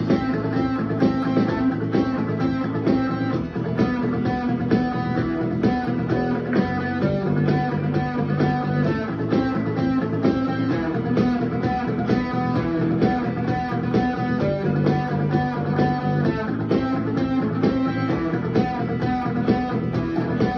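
Rock music led by electric guitar, with bass and a steady drum beat.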